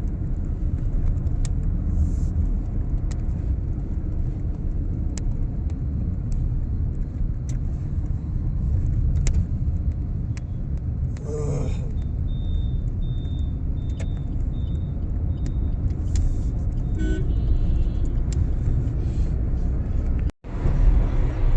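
Steady low rumble of a road vehicle in motion. A series of short high beeps, about two a second, sounds around halfway through, and the sound cuts out for a moment near the end.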